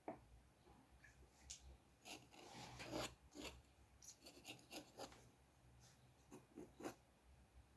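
Faint scratching and rubbing of a drawing tool on paper: a run of short strokes, bunched in the middle and again near the end, with a small click at the very start.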